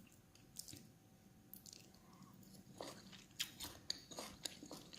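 Faint chewing and crunching of crispy fried tilapia, close to the mouth. The short crackles come more often in the second half.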